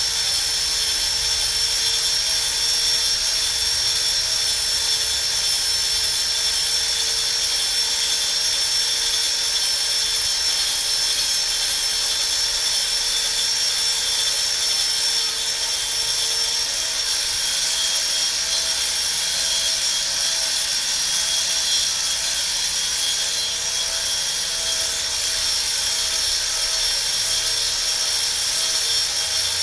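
The high-speed cutting spindle of a fishing lure duplicator runs steadily with a high-pitched whine while it copy-carves a lure blank.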